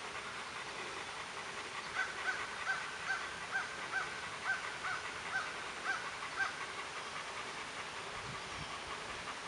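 A bird calling: a run of about a dozen short, evenly spaced notes, a little over two a second, starting about two seconds in and stopping past the middle.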